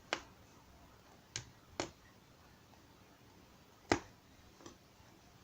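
Five short, sharp clicks spread irregularly across a few seconds, the loudest about four seconds in, over a quiet background.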